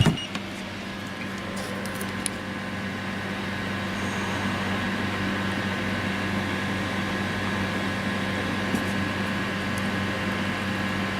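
Small cooling fans on the heat sinks of a homemade Peltier mini fridge running with a steady hum and whir. A short knock sounds right at the start.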